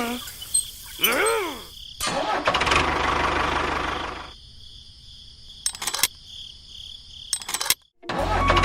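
Engine sound starting up and running in two short spells with a low rumble, separated by a quieter stretch with a few sharp clicks. A single pitch glide rises and falls about a second in.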